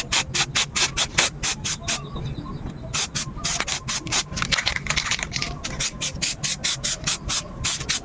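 Hand sanding: rapid back-and-forth strokes of sandpaper, about five a second. They stop for about a second partway through, then resume.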